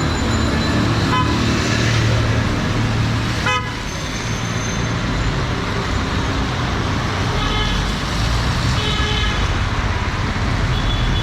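Street traffic running steadily, with vehicle horns honking in short blasts several times, notably about seven and nine seconds in.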